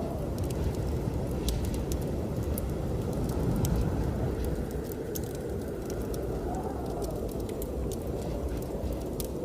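Wood fire crackling, with scattered sharp pops, over a steady low rush of blizzard wind.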